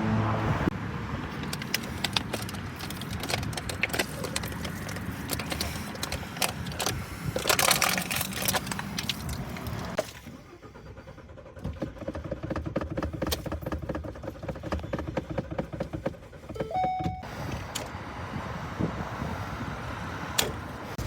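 Repeated clicks and metallic clinking from handling things at a car, with road and traffic noise behind, and a short electronic beep about three-quarters of the way through.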